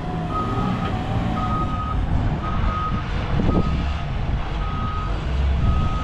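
Vehicle backup alarm beeping, about one beep a second, over a low engine rumble.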